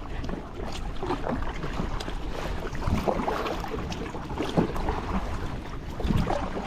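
Kayak paddles dipping and pulling through the water in uneven strokes about once a second, with water splashing and wind on the microphone.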